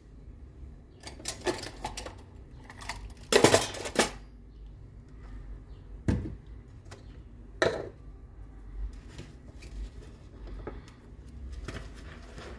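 Dishes and cutlery clattering and clinking against each other as they are washed by hand: irregular knocks, with the loudest cluster of clatters about three to four seconds in.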